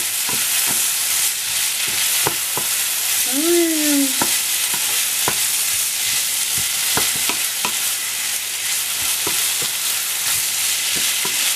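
Rice frying and sizzling steadily in a frying pan while a wooden spatula stirs it, with irregular knocks and scrapes against the pan: the rice being toasted with paella seasoning before the broth goes in.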